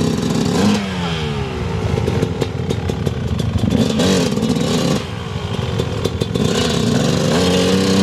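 Dirt bike engine revving up and falling away several times under load on a hill climb, with some clatter, as the rear tire spins for grip.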